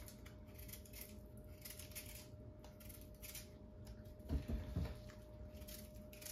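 Yellow yam being peeled by hand: short scraping strokes of the blade against the tuber, about two a second. A few dull low thumps about four seconds in are the loudest part.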